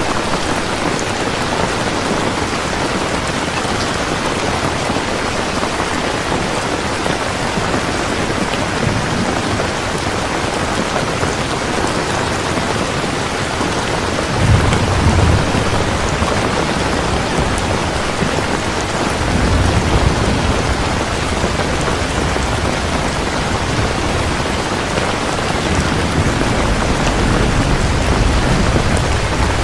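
Heavy steady rain, an even hiss, with low rolls of thunder rumbling in about halfway through and again in the second half.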